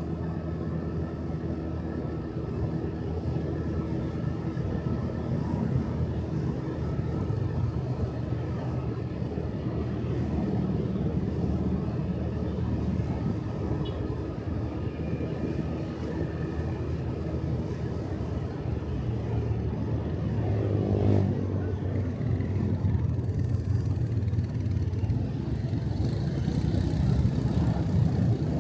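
Motorcycle engine running steadily while riding, with road noise, its pitch shifting a little with speed. A brief rising sound comes about twenty seconds in.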